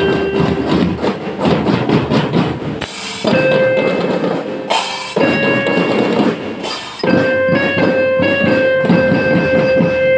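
Marching band playing: held notes from the melody instruments over busy snare and bass drums, with the music breaking off abruptly a few times.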